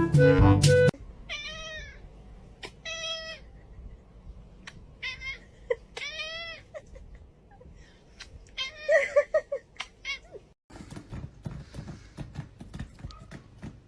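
A domestic cat meowing repeatedly: about five drawn-out meows, each rising and then falling in pitch. Music cuts off about a second in, before the meows.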